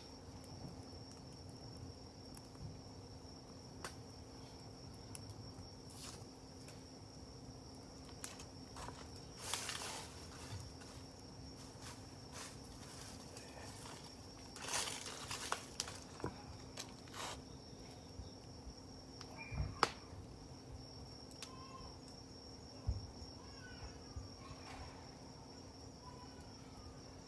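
Wood campfire crackling faintly, with scattered pops and snaps, the loudest clustered near the middle, over a steady high-pitched drone.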